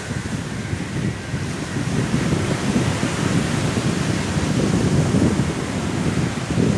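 Sea waves on a shore mixed with strong wind buffeting, a continuous low rumbling wash that surges and eases.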